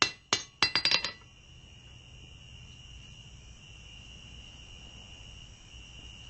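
Hammer blows ringing on the steel anvil, a few evenly spaced strikes followed by a quick run of light taps about a second in, then the hammering stops. After that a steady high thin whine carries on in the background.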